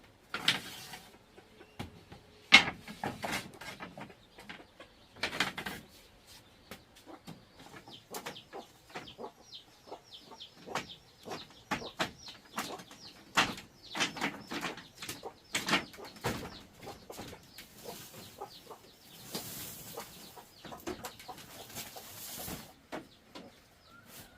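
Scattered knocks and clatter, with a long run of quick, high chirps from birds through the middle; the birds sound like chickens.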